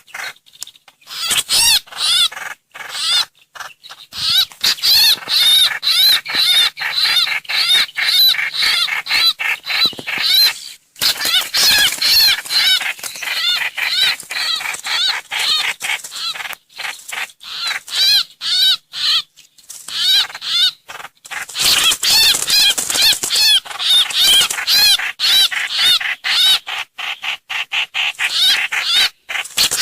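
Lure recording of the bird called trao trảo or hoành hoạch in Vietnamese, calling loudly: fast runs of short, sharp, arched notes repeated many times a second, broken only by brief pauses.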